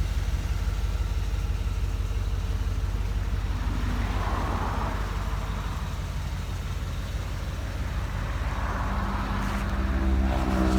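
1982 Corvette's 350 cubic-inch (5.7 L) Cross-Fire Injection V8 idling steadily, the engine note rising and growing louder near the end.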